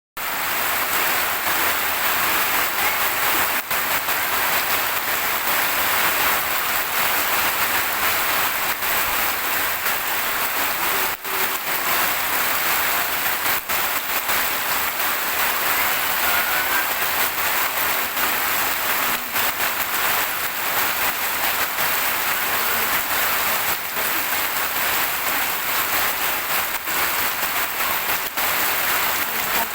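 Steady heavy rain falling, a dense even hiss without a break.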